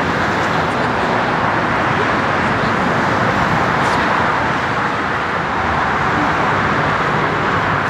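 Jet airliner engines running, a steady even rush of noise that holds the same level throughout.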